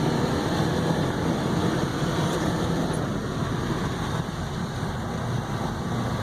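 Suzuki Carry kei truck's 660 cc three-cylinder engine running steadily while driving, under a steady haze of tyre and road noise on snow.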